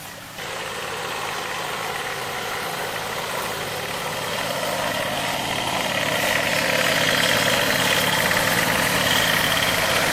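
A machine running steadily, growing louder about six seconds in, with a faint high whine over it.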